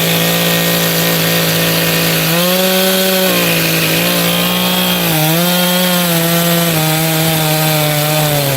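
Two-stroke chainsaw running at high speed, its engine pitch sagging and recovering a few times as it cuts into wood.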